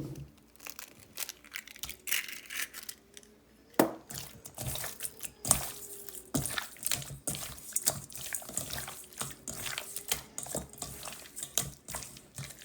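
Diced raw chicken being mixed with a beaten egg in a bowl: irregular wet squelching and sloshing with small clicks as it is stirred.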